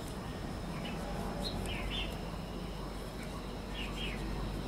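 Small birds chirping in short paired notes a few times, over a steady low background rumble.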